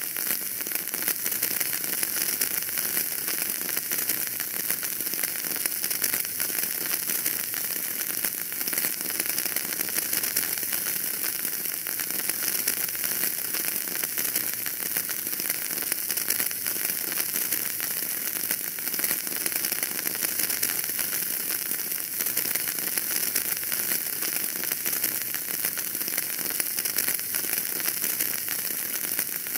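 Wood fire burning in a fireplace: a steady, dense crackle of many small snaps over a constant hiss.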